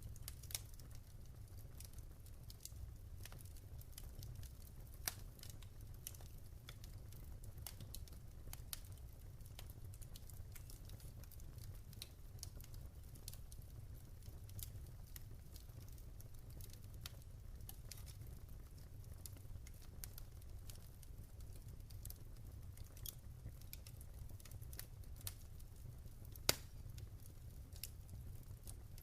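Wood fire crackling: irregular sharp pops and snaps, one louder pop about five seconds in and the loudest near the end, over a steady low rumble.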